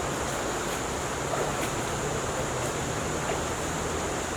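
Mountain river flowing: a steady rush of water, with a faint high steady tone above it.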